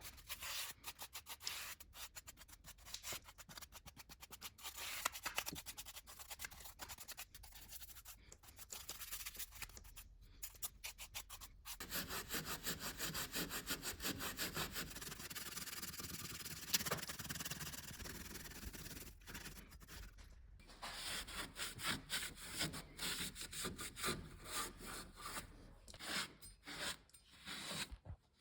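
Rapid hand scraping and scrubbing strokes on Subaru EJ engine parts being cleaned, with a steadier stretch of continuous rubbing in the middle.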